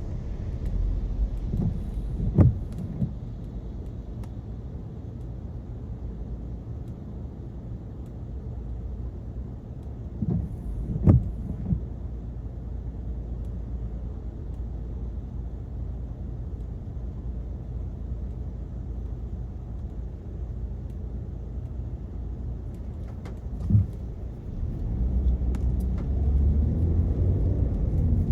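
Car driving on a wet road, heard from inside the cabin: steady low tyre and engine rumble. Three sharp thumps are spread through it, and the rumble grows louder near the end.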